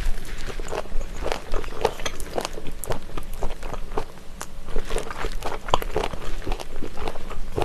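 Close-up chewing of spicy stir-fried chicken feet: quick, irregular crunching of the cartilage, several crunches a second.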